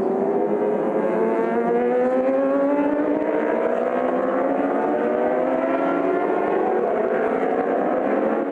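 Several racing motorcycle engines at high revs, their overlapping pitches rising and falling as the bikes accelerate and pass. The sound cuts off abruptly at the end.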